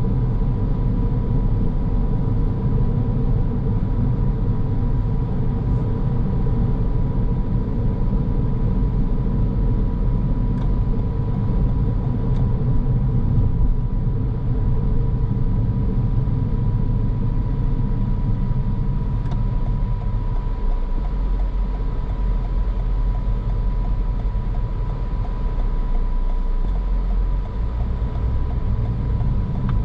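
A car driving at steady speed: continuous low rumble of tyres and engine, with a faint steady high tone running through it.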